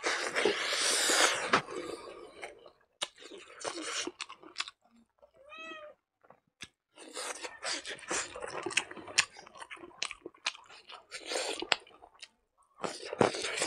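Close-up chewing and lip-smacking of a mouthful of rice and silkworm larvae eaten by hand, thickest in the first two seconds and then as scattered wet smacks and clicks. About halfway there is one brief high call that rises and falls.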